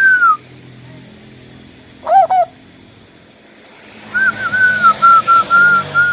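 Asian koel calling with clear whistled notes. A single falling note, then a pair of arched notes about two seconds later, and near the end a quick run of about ten short notes on nearly one pitch, slowly sinking.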